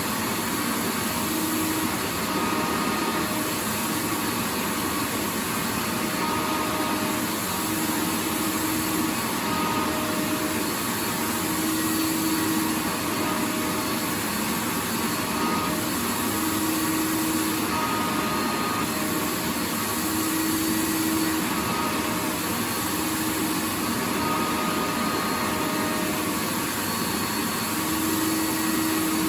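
Vacuum cleaner running steadily, a continuous even rush of air with a faint motor whine that wavers in and out every few seconds.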